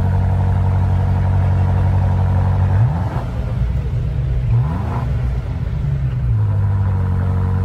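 BMW M5 Touring's twin-turbo V8 idling, blipped twice about three and five seconds in, the revs rising and falling back to a steady idle.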